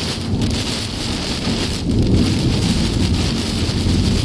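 Steady noise inside a moving car: a low rumble of tyres and engine with a hiss above it.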